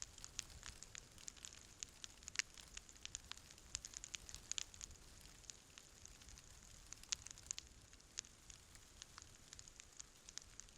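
Wood campfire crackling: irregular sharp pops and snaps, several a second at times, over a faint low hiss of the burning.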